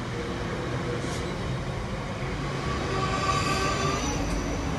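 South Western Railway Siemens Desiro electric multiple unit passing close by: a steady rumble of wheels on the rails, with a high whine strongest about three to four seconds in.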